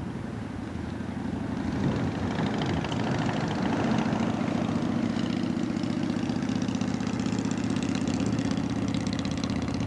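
Propeller plane's piston engine running steadily, growing louder about two seconds in and then holding at an even pitch.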